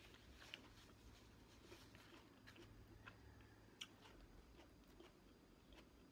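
Faint close-up chewing of fresh fruit: soft, scattered wet mouth clicks, with one sharper click a little past halfway.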